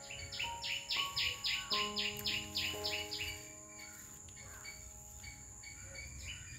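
A bird calling a fast run of about ten repeated chirps over some three seconds, then falling silent, over soft background music with sustained notes.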